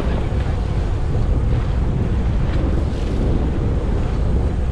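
Steady wind buffeting the microphone on a boat at sea, a constant low rumble with the wash of the water around it.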